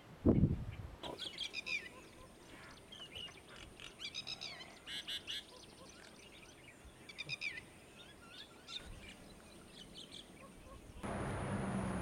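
Wild birds calling in the background: short chirpy calls repeated in quick runs over several seconds. Just after the start there is a single low thump. About a second before the end the calls give way to a louder, steady hiss with a low hum.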